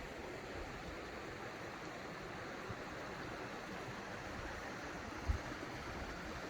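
Steady rush of a running creek, with one brief low thump a little over five seconds in.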